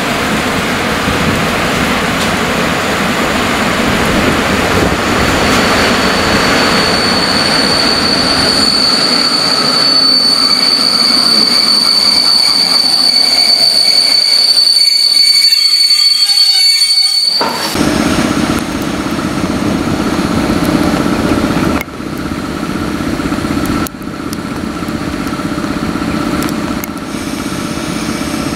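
Passenger train hauled by an EP07 electric locomotive rolling in along the platform, its wheels and brakes giving a steady high-pitched squeal over the rolling noise as it slows. About two thirds of the way in the sound changes abruptly to the steady hum of the electric locomotive.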